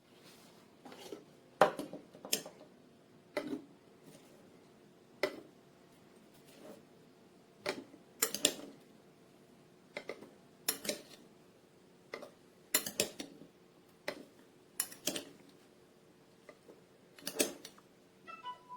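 Clinks and clicks of hard kitchenware being handled and set down, sharp separate knocks coming irregularly every second or so.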